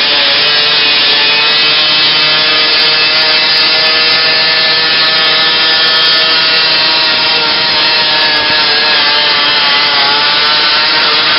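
Modified garden pulling tractor's engine running hard at high, steady revs during a pull, with a brief dip in pitch about ten seconds in.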